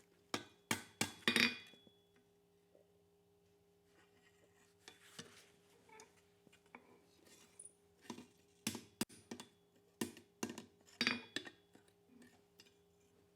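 Light metallic clinks and taps from a small forged steel fork being handled and adjusted. They come in scattered clusters: several in the first second and a half, then more from about nine seconds on, over a faint steady hum.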